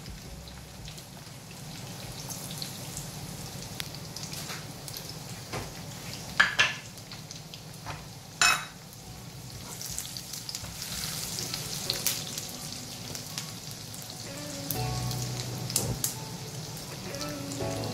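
Sliced shallots and dried red chillies sizzling in hot coconut oil and butter in a nonstick frying pan, a steady frying hiss with a few sharp clicks about six and eight and a half seconds in.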